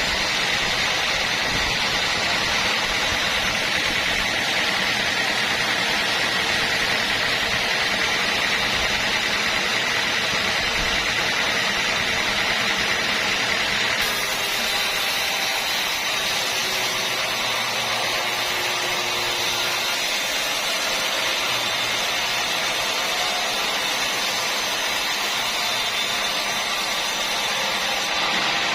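Sawmill machinery running: a steady, loud mechanical noise with a high whine, whose sound shifts about halfway through.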